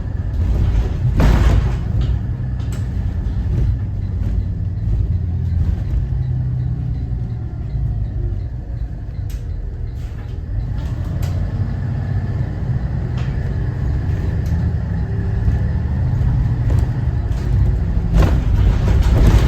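Cummins ISB 6.7 inline-six turbodiesel of a Thomas Saf-T-Liner C2 school bus running as the bus drives: a steady low rumble with scattered short rattles and knocks, louder about a second in and again near the end.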